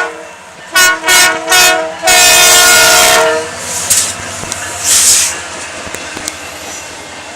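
Locomotive horn sounding a chord in three short blasts and then one longer blast. After it come two brief hissing bursts and the steady rumble of the passing train with faint clicking wheels.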